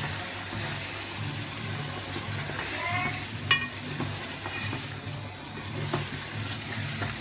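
Chicken, tomatoes and spices sizzling as they fry in an aluminium pot while a spatula stirs and scrapes through them. About three and a half seconds in, the spatula strikes the pot with one sharp clack.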